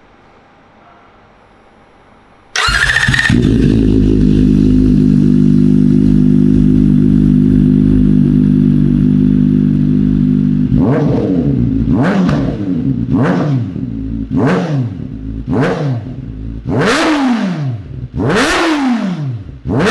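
A 2023 Kawasaki Ninja ZX-4RR's 399 cc inline-four engine starting up about two and a half seconds in, then idling steadily. Later it is revved in about eight quick throttle blips, each rising sharply in pitch and dropping back to idle.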